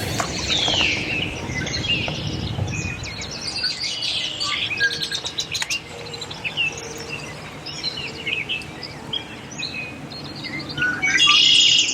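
Several songbirds singing and chirping, with many short high calls overlapping throughout.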